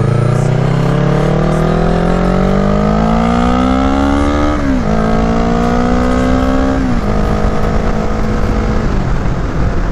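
Kawasaki Ninja 650 parallel-twin engine accelerating, its pitch rising steadily for about four and a half seconds, then dropping sharply at two upshifts about two seconds apart, after which it runs at a steady pitch and eases off near the end.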